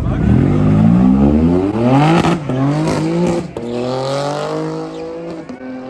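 A car engine accelerating hard, the revs climbing, then dropping at two upshifts about two and three and a half seconds in, and getting quieter as the car pulls away.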